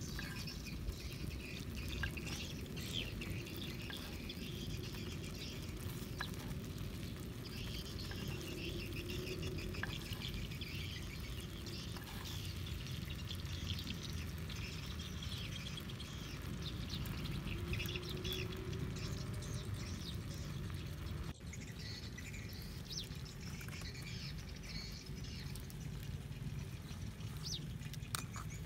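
Small birds chirping and twittering over a steady low outdoor rumble, with a few faint light clicks.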